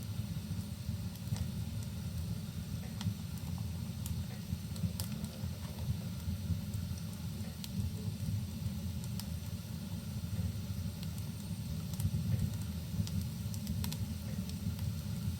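A fireplace fire crackling, with scattered sharp pops and snaps over a steady low rumble, and a soft even hiss of rain.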